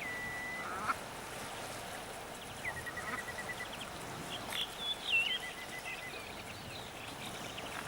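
A bird calling several times: a high whistled note that breaks into a quick string of short repeated notes, over a steady background hiss.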